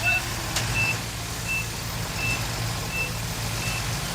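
Reversing alarm on heavy earth-moving equipment beeping steadily, six short high beeps about three-quarters of a second apart, over the steady low running of the machine's engine. A brief sharp click comes about half a second in.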